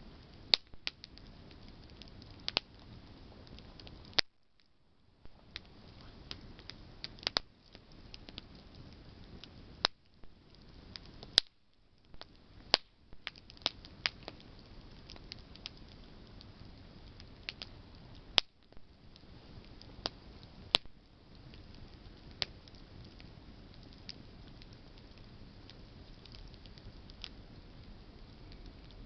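Wood fire burning, a steady low hiss broken by irregular sharp pops and crackles from burning branches, a handful of them much louder than the rest.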